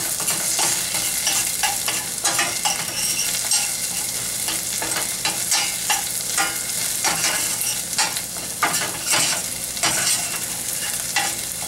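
Chopped onion and garlic sizzling in butter in a stainless steel saucepan, with a spoon stirring and scraping against the pan in repeated short strokes over a steady frying hiss.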